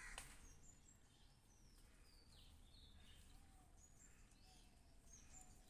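Near silence with faint bird chirps in the background: short high whistled calls scattered through, several falling in pitch. A brief click just after the start.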